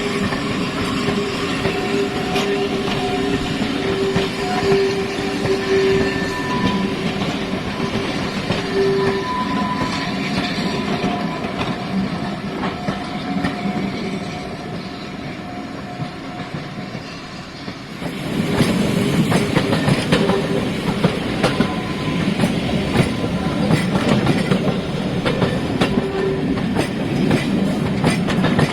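Train running on jointed track, its wheels clicking over the rail joints, with steady tones held over the running noise. About two-thirds of the way through the sound jumps suddenly louder and fuller.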